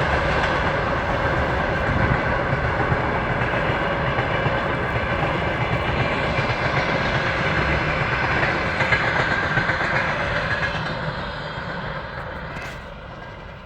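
Train wheels clattering on the rails as a train runs, a steady rumble that fades away over the last few seconds.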